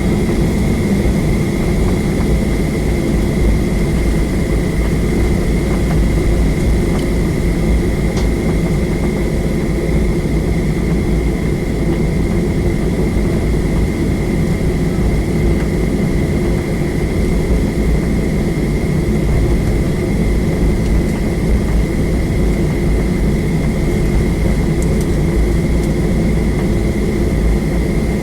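Jet airliner engine and cabin noise heard from inside the cabin: a steady loud rumble with a steady high whine over it.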